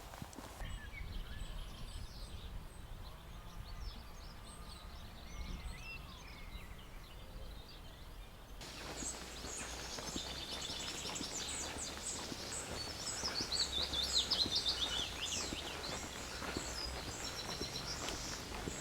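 Small birds chirping and singing over a low outdoor rumble. About halfway through the background noise rises and the song gets busier, peaking in a run of quick falling notes.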